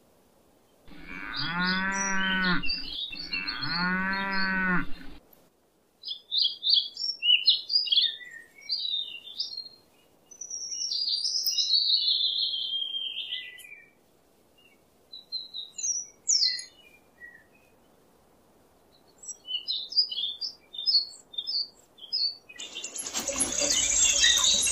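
Cow mooing twice, each moo about two seconds long with an arching pitch, followed by birds chirping. Near the end a louder, noisy sound starts.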